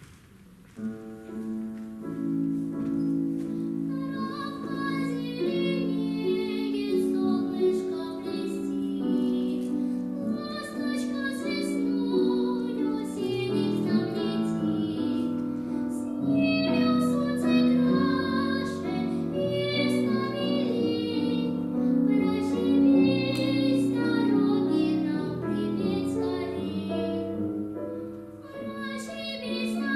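A young girl singing with instrumental accompaniment, starting about a second in after a near-silent moment.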